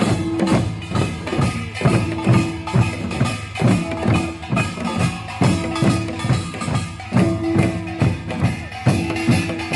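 Korean samul nori percussion ensemble playing a rapid, steady rhythm: small hand gongs clanging over the beat of drums, with a gong ringing on in held tones now and then.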